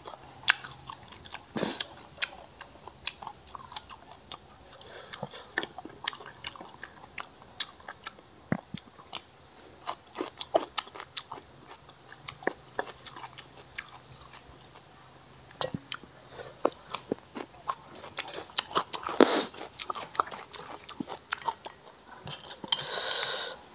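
Close-up chewing and crunching of crispy fried pork, picked up by a clip-on microphone: scattered sharp crunches and mouth clicks, with a couple of louder rushing noises about nineteen seconds in and near the end.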